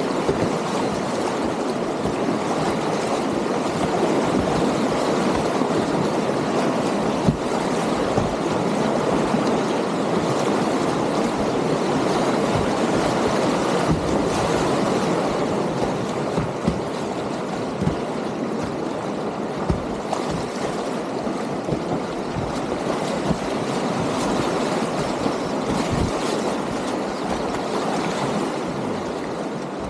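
Whitewater rapids rushing steadily around a kayak, the river running at about 12 cubic metres per second, with a few short knocks and splashes now and then.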